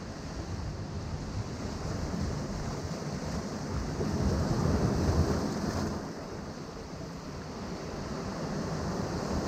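Ocean waves breaking on a rocky shore: a steady wash of surf that swells to a peak about halfway through, eases off, then builds again near the end.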